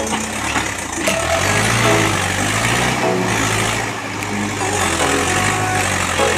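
Mahindra tractor's diesel engine running with a steady low drone.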